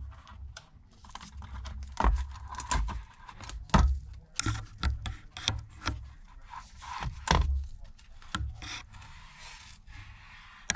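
Irregular small clicks, taps and light scrapes from hands and metal tools handling the parts of an opened iPad, with a few low bumps against the work surface.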